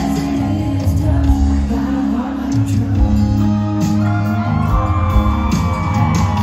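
Live country band music played loud through a concert sound system, with steady bass, drums and sustained instrument tones, and crowd shouts and whoops mixed in.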